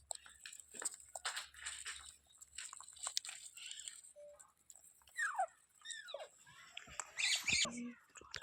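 Green parrot making two short downward-sliding calls about halfway through, amid small clicks and crunches, with a louder harsh rasp near the end.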